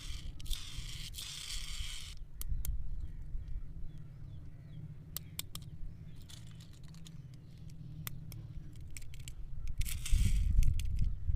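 Foil wrapper of a chocolate egg crinkling and tearing as it is unwrapped: a crinkly burst early on, scattered sharp clicks and ticks for several seconds, then another louder burst near the end, over a low handling rumble.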